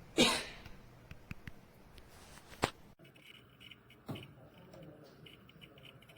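A few knocks and clicks of handling: a loud knock just after the start, a sharp click in the middle, and a softer knock about four seconds in, with faint ticks between.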